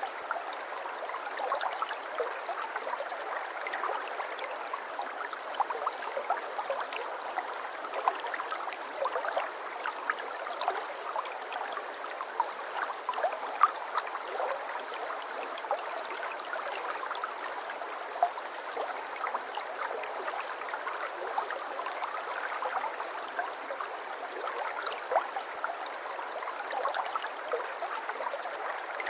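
Shallow brook babbling over stones, a steady rushing with many small splashes and gurgles.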